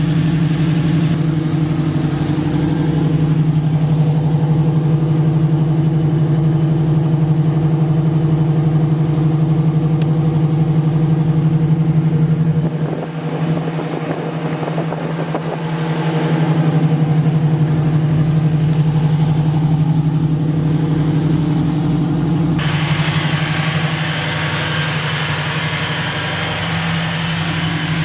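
Car engine idling steadily, with an even low pulsing beneath its note.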